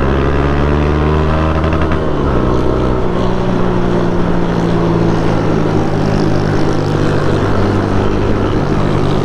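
Motorcycle engine running under way, its note shifting down slightly about two to three seconds in, then holding steady.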